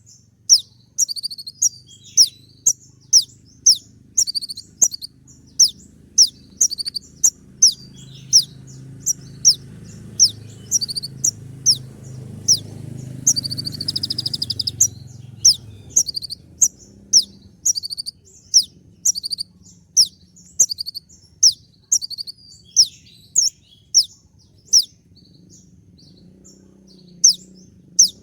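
Kolibri ninja (konin) sunbird repeating a sharp, high, quickly falling chirp about two times a second: the rapid 'tembak' (shooting) call used as a masteran to provoke other konin. A faint low hum sits under it for a while, and there is a short hiss about halfway through.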